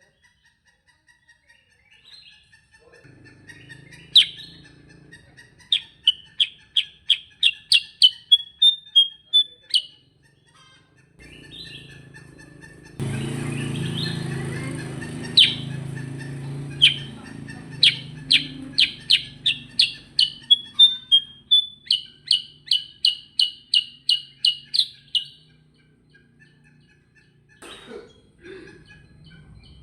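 Silver-eared mesia (kutilang sutra) singing its rolling song: long runs of rapid, evenly repeated clear notes, about four a second, in two bouts, each ending in a short quicker flourish.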